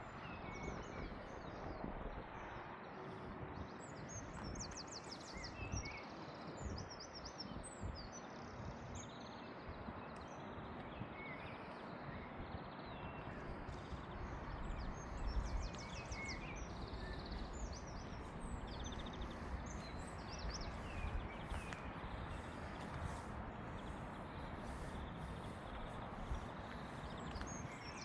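Small birds chirping, with several quick high trills, over a steady outdoor background hiss. Low, irregular footfalls of someone walking can be heard underneath.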